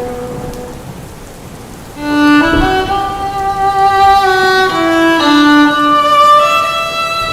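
Background music: a violin playing a slow melody of held notes. The first note fades out, there is a short lull with a faint hiss of rain, and the melody comes back louder about two seconds in.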